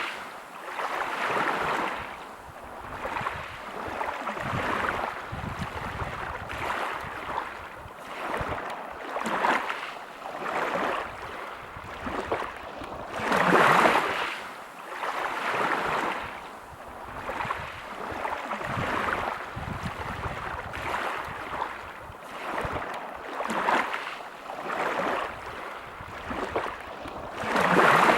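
Sea waves breaking on a pebble beach, each one rushing up in a surge of noise and washing back, with a larger wave about halfway through and another at the end.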